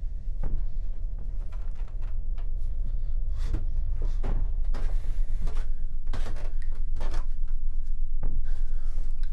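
A door being opened and handled, with a string of irregular knocks and creaks, over a steady low rumble.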